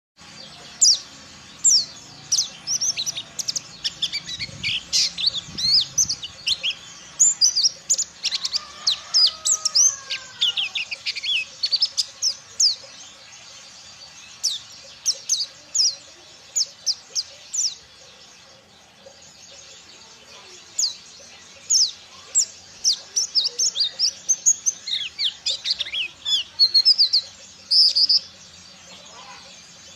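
Ciremai pleci (white-eye) singing a fast twittering song of short, sharp, high chirps sweeping steeply downward, delivered in dense runs with a brief lull about two-thirds of the way through.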